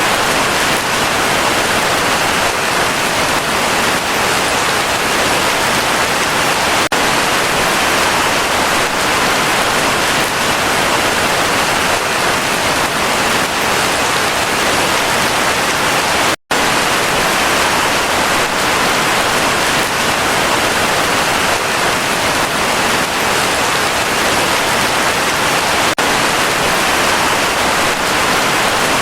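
Heavy rain falling steadily, a dense, even hiss. It cuts out for an instant about halfway through.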